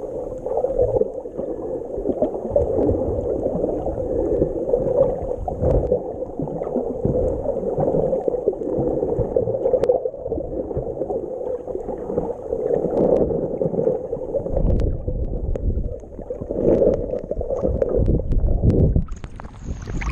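Muffled rushing and gurgling water churned up on a jet ski ride, with low rumbling surges that come and go.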